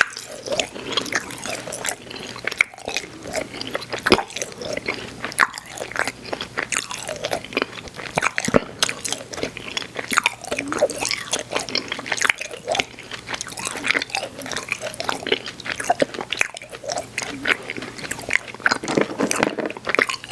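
Close-miked mouth sounds of someone chewing soft, chewy Airheads Xtremes sour candy: a continuous run of small smacks and clicks from the mouth and teeth.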